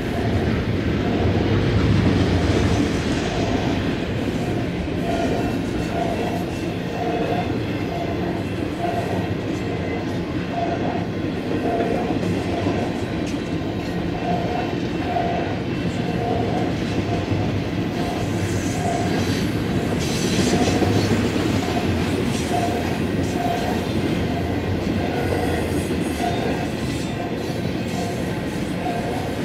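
Double-stack intermodal well cars of a freight train rolling past at trackside: a steady rumble of steel wheels on rail with clickety-clack over the joints.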